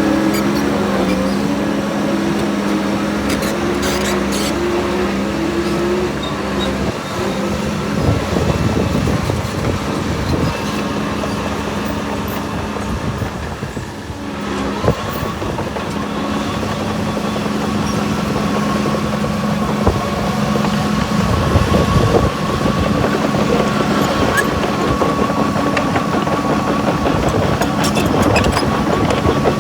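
Diesel engine of heavy earthmoving machinery running steadily, with a few sharp knocks and a steady higher whine in the second half.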